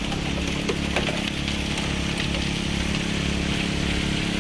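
Small petrol engine running steadily at a constant speed, with water rushing through a gold sluice.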